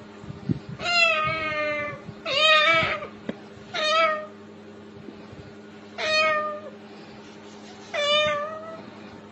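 Domestic cat meowing five times, long drawn-out calls about two seconds apart, the first two the longest.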